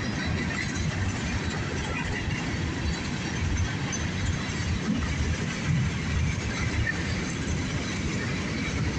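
Empty coal train rolling past: a steady rumble of hopper-car wheels on the rails.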